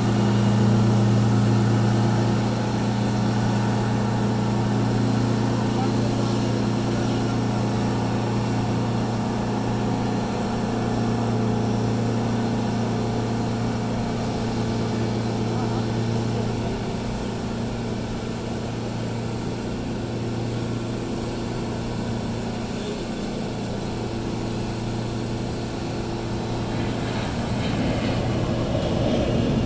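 Steady low machine drone of a Boeing 777-200ER pushback, the aircraft and its tug running with a constant hum and a few steady tones above it, growing louder and noisier near the end.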